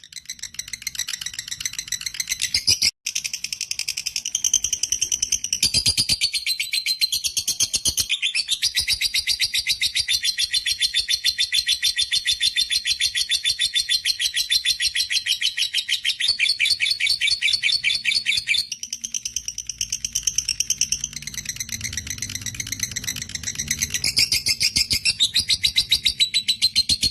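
Lovebird giving a long ngekek chatter: a fast, unbroken run of shrill repeated notes, broken only by a few brief pauses.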